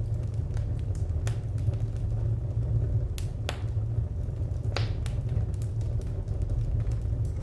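Wood fire crackling: a steady low rumble under scattered sharp pops and snaps, with a few louder snaps a little past the middle.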